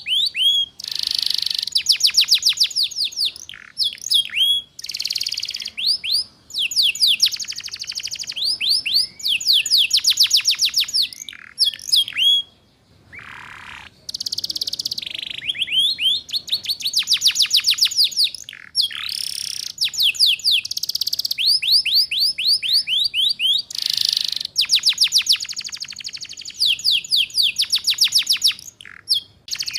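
Domestic canary singing: rapid trills of repeated high, down-sweeping notes, delivered in phrases a second or two long with short breaks and a longer pause about halfway through. This is the trilling 'ngeriwik' style used as a training song for young canaries.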